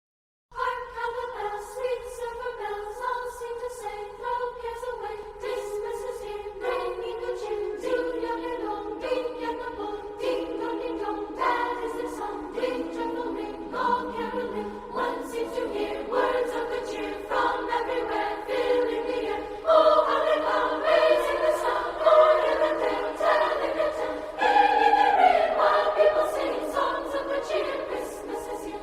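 Choral music: voices singing slow, held chords that change every second or so, getting louder about two-thirds of the way through.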